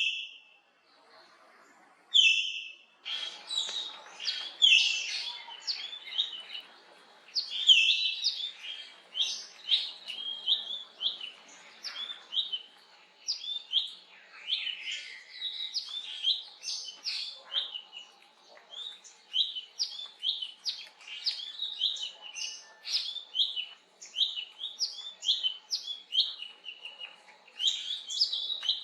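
Wild birdsong: one sharp high call, a brief pause, then a steady run of quick, high chirping notes, several a second, that carries on throughout.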